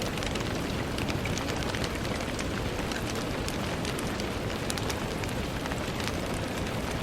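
Steady rain, a constant hiss with many small drops ticking, meant to be rain falling on a window.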